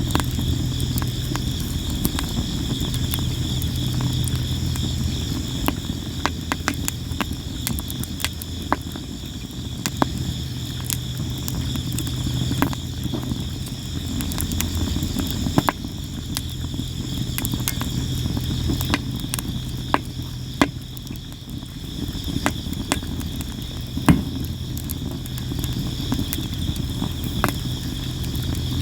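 Sawara cypress campfire crackling, with frequent sharp pops at irregular intervals and a louder pop about 24 seconds in, over the steady chirping of crickets and a low rumble.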